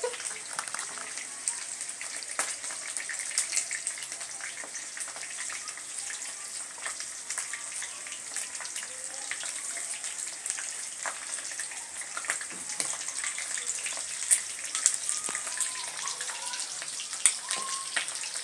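Chicken pieces deep-frying in hot oil: a steady sizzle with many irregular pops and crackles.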